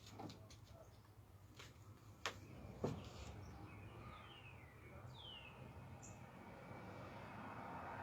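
Faint backyard birdsong: a songbird gives a few clear whistles that slide downward in pitch, over a soft outdoor background hiss that grows a little toward the end. A few faint sharp clicks sound in the first three seconds.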